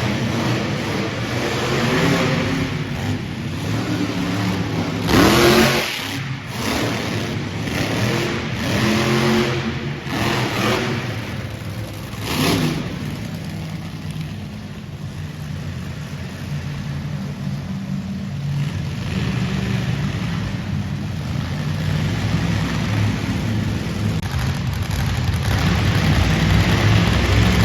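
Monster truck engines racing side by side, revving hard in surges with rising and falling pitch. About halfway through they settle into a steadier low running sound, which builds louder near the end.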